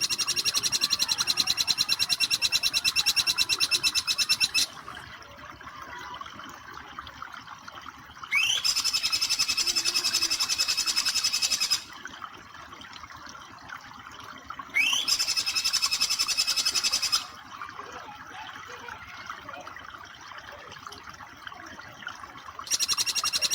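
Bar-winged flycatcher-shrike (jingjing petulak) calling in four bursts of a few seconds each, every burst a very fast rattling trill of repeated notes. Two of the bursts open with a quick rising note. A steady wash of running water sounds beneath and fills the gaps between the bursts.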